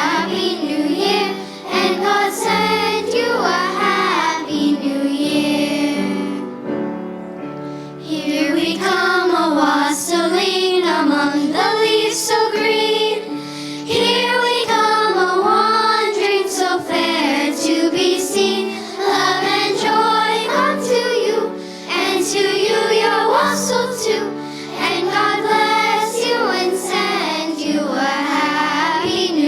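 Children's choir singing a song, with a short break in the phrase about seven seconds in.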